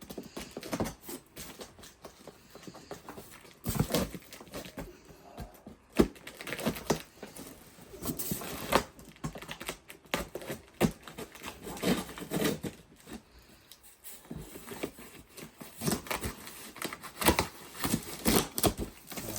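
A box of packaging being opened and handled: irregular crinkling and tearing, with scattered sharp knocks.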